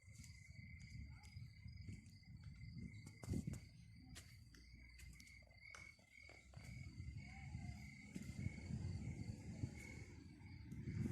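Insect chirping, probably a cricket: a thin, high, pulsing trill repeating a few times a second, over a low outdoor rumble. Scattered sharp clicks fall in the middle of the stretch.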